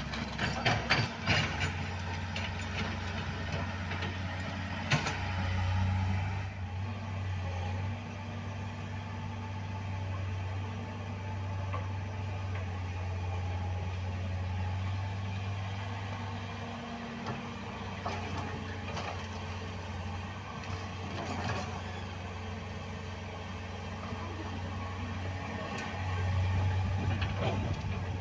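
A heavy vehicle engine running steadily with a low hum, growing a little louder twice, with a few sharp clicks or knocks in the first seconds.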